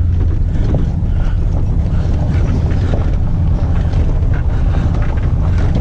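Truck running, a steady low engine and road rumble, with wind buffeting the microphone.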